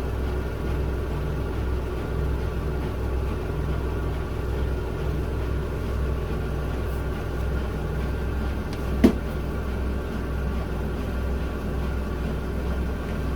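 Miele W1 front-loading washing machine spinning its drum at a steady speed: an even low rumble with a constant motor hum. A single sharp click about nine seconds in.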